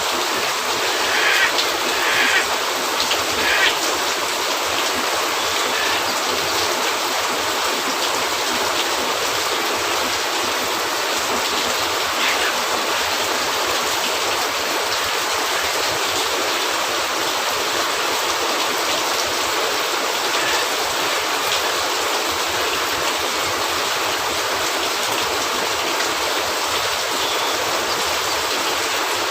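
Steady rain falling on a cabin roof, an even, unbroken hiss, with a few brief louder spatters in the first few seconds.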